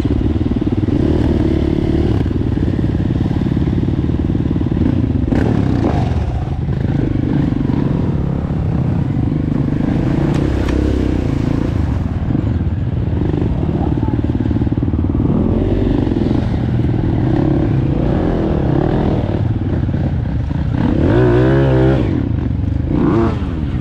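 Single-cylinder four-stroke dirt bike engine running while riding a trail, the throttle opening and closing so the engine note rises and falls. Near the end there is a quick wavering run of revs.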